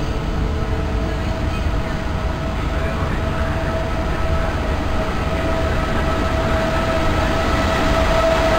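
Electric regional train approaching along the platform track, its running rumble growing steadily louder, with a steady high whine that strengthens as it draws near.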